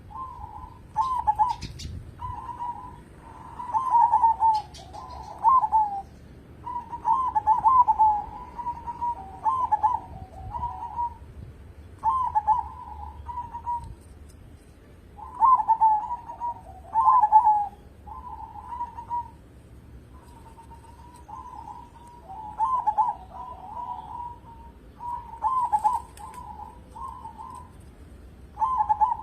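Zebra dove (perkutut) cooing in a long run of short, rolling phrases, each repeated every second or two with a few brief pauses.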